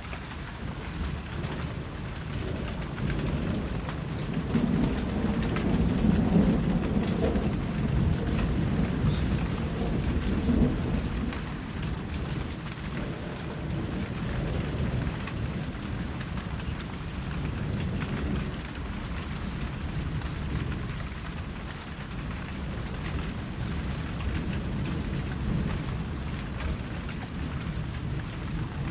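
Steady rain falling. A low rumble swells from about three seconds in and dies away by about eleven seconds.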